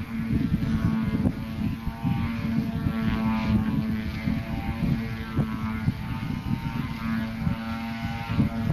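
50cc gasoline engine and propeller of an F3A aerobatic radio-controlled model airplane in flight. The drone rises and falls in pitch as the plane manoeuvres, with wind buffeting the microphone.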